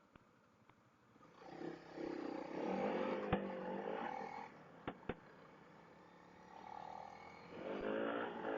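Honda CRF300L single-cylinder engine pulling away and accelerating, its pitch rising and falling through the gears in two bouts, with a few sharp clicks in between.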